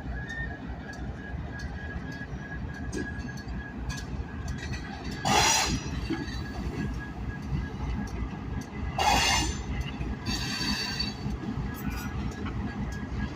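Train of railroad tank cars moving during switching, a steady low rumble, with two short, loud bursts about five and nine seconds in.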